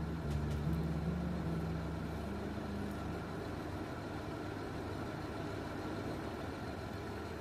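Car engine idling steadily, under the last held notes of music that fade out about three seconds in.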